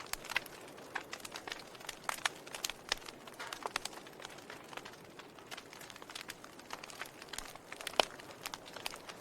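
Wood fire crackling in a fireplace: irregular sharp pops and snaps over a soft steady hiss, with one louder pop about eight seconds in.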